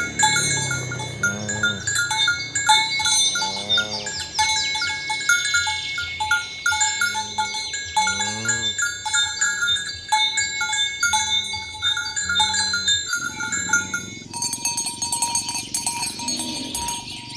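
Cows mooing again and again in short calls, one after another, with bells clinking among the herd.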